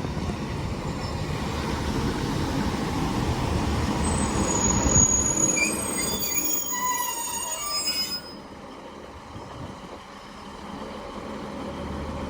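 British Rail Class 156 diesel multiple unit running into the platform and braking. Loud rumble, then several high-pitched squeals from the brakes and wheels, until it comes to a stop about eight seconds in.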